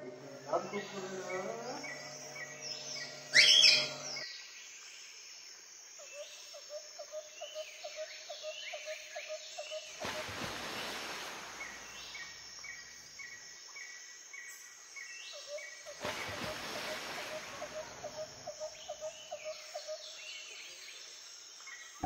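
Birds chirping in many short, falling notes over a faint hiss, with one loud sharp call about three and a half seconds in.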